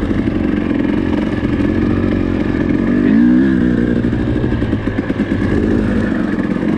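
Four-stroke dirt bike engine running under way, its pitch rising and falling briefly about three seconds in as the throttle is worked.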